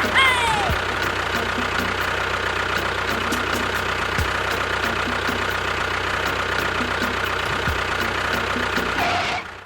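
An engine running steadily, with a low rumble, a steady hum and a few faint knocks. It cuts off suddenly near the end.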